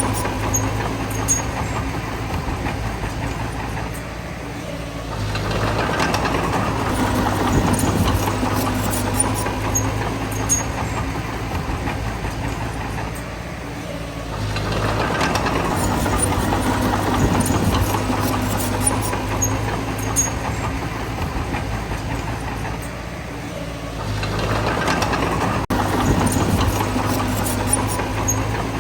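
Bulldozer's diesel engine working, swelling louder and easing off three times, about every nine or ten seconds, as the load comes and goes. Light metallic clicking runs over it.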